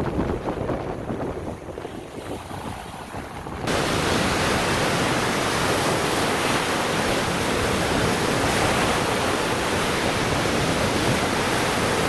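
Lake Michigan waves surging and breaking on the beach. A little over three seconds in, the sound changes abruptly to a louder, steady rushing hiss of surf.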